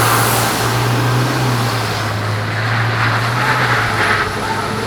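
A vehicle engine droning at a steady, held pitch for about four seconds, then easing slightly, over a noisy haze.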